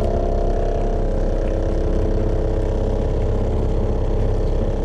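A 12-volt transfer pump running steadily with a constant hum, drawing waste motor oil up out of a drum through its suction hose.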